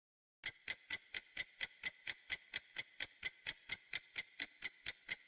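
Ticking clock sound effect used as a quiz countdown timer: evenly spaced sharp ticks, about four a second, starting about half a second in.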